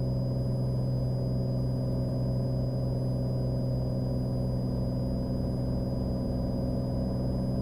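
Cessna Skylane's six-cylinder piston engine and propeller droning steadily in the cabin during the climb-out after takeoff, with a faint steady high-pitched whine above it.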